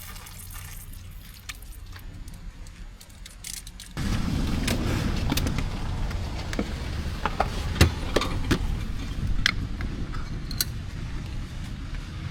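Tank 500 SUV on a rough road: a low rumble that gets much louder about four seconds in, with scattered sharp clicks and knocks over it.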